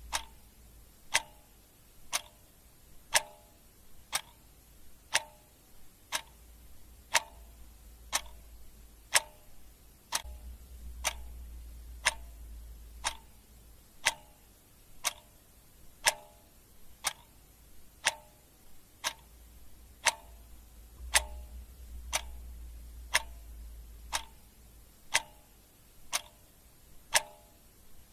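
Clock ticking steadily once a second, the ticks alternating louder and softer in a tick-tock pattern.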